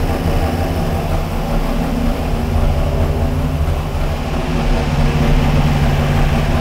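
426 Hemi V8 on dual four-barrel carburetors idling steadily on an engine dynamometer while it warms up, a little louder in the second half.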